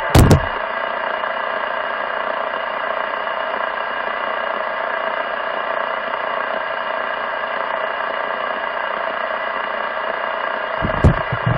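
CB radio speaker carrying a keyed-up transmission of steady buzzing noise with several steady tones in it. It opens with a pop as the transmission keys up, and there is another pop about eleven seconds in.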